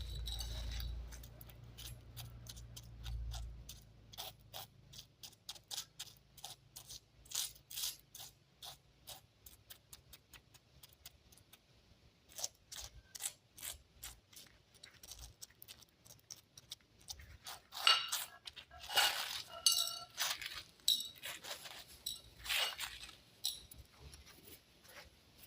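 Irregular light clicks, chinks and scrapes of small stones being handled and set in adhesive, louder and more frequent about three-quarters of the way through. A low rumble of handling in the first few seconds.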